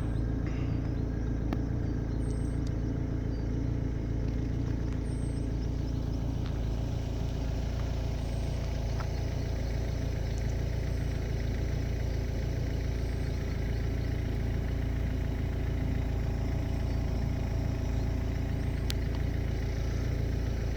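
Steady car engine and road noise heard from inside the car while driving, a low even drone.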